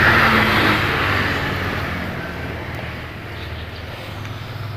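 A motor vehicle passing close by, loudest at the start and fading away over the next few seconds.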